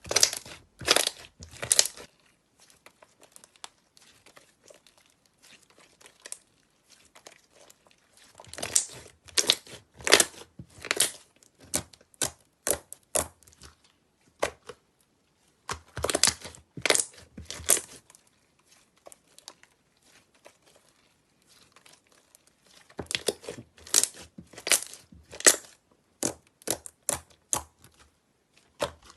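Slime being worked by hand, making sharp crackling and popping in bursts of a few seconds, with short pauses between.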